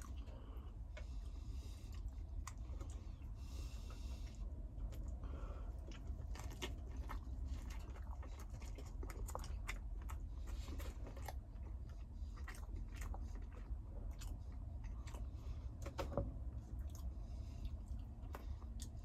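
A person chewing and biting food close to the microphone: irregular small crunches and clicks over a steady low hum.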